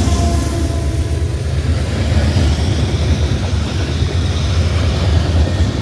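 A loaded freight train rolling past at close range: a heavy, steady rumble of cars going by, with the last of the locomotive horn fading out about a second in.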